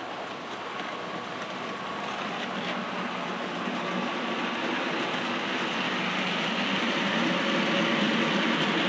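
Model train running on the layout, a steady rolling rumble with a faint engine tone that grows gradually louder as it comes closer.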